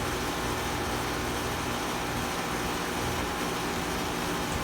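Outdoor Bryant air conditioner condenser units running: a steady fan rush over a low compressor hum.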